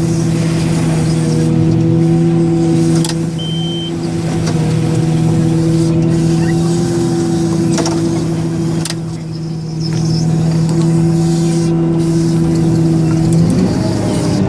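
Caterpillar 990H wheel loader's big diesel engine running steadily at high revs while loading a haul truck, with a few sharp knocks. The engine note shifts about a second before the end.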